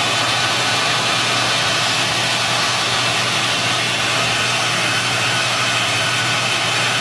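Maytag top-load washer filling with water: a steady rush of incoming water with a low, steady hum under it.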